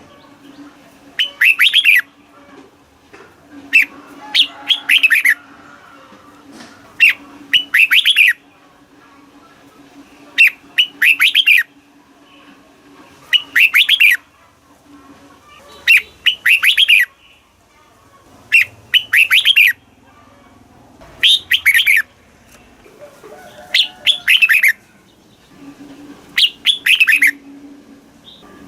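Red-whiskered bulbul singing: short bright phrases of a few quick notes, repeated about every two to three seconds.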